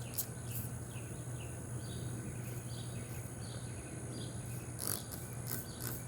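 Outdoor insect chorus, a steady high-pitched trill with repeated short chirps over a low steady hum. Several short hissing spritzes come near the end, from a spray bottle of sugar water.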